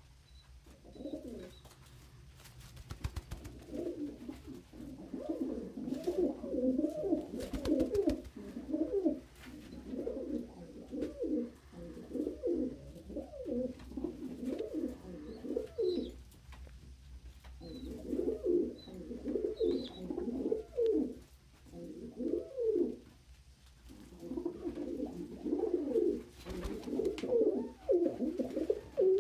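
Domestic pigeons cooing over and over, phrase after phrase with brief pauses, with a few faint high chirps.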